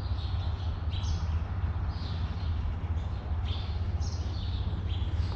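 Small birds chirping: short, high chirps, each dipping a little in pitch, repeating about once a second, over a steady low rumble.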